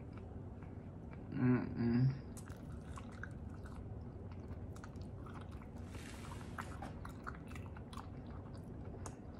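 A person chewing French fries close to the microphone: soft, irregular mouth clicks and chewing. There is a short hummed murmur about one and a half seconds in.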